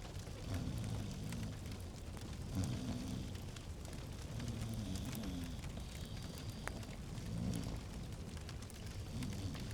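Log fire crackling in a fireplace: a steady low rumble with scattered sharp pops.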